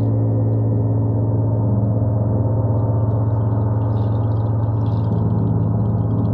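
A gong sounding continuously: a deep, steady drone full of overtones, with a faint shimmer above it.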